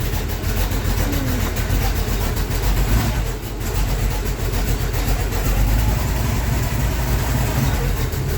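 Car engine and road noise while driving: a steady, loud low rumble.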